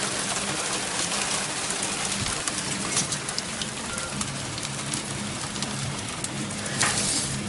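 Hail pelting down: a dense, steady hiss of falling stones, studded with many sharp ticks as single hailstones strike, swelling briefly louder near the end.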